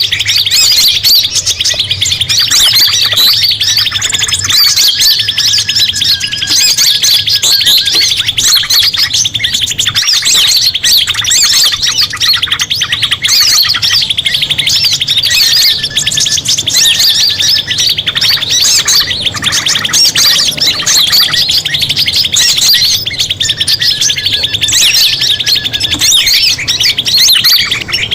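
A dense mixed chorus of small songbirds chirping and trilling rapidly and continuously, as played in a bird-lure (pikat) recording. Short repeated whistled calls stand out every few seconds above the twittering.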